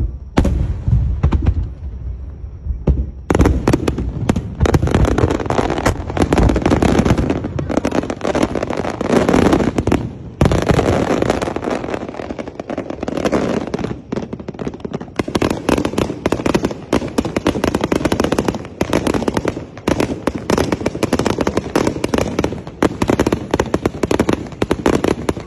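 Fireworks going off in a dense barrage: low booms in the first seconds, then continuous rapid crackling and popping.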